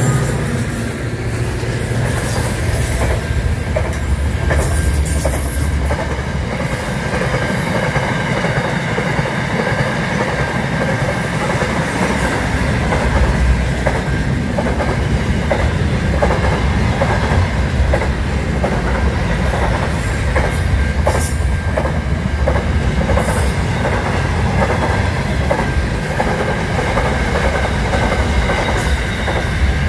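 Aurizon freight train's container wagons rolling past close by: a steady rumble with a rhythmic clatter of wheels over the rail joints and a steady high wheel squeal.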